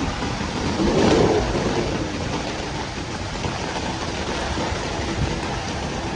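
Heavy rain falling in a steady hiss, with a brief louder low swell about a second in.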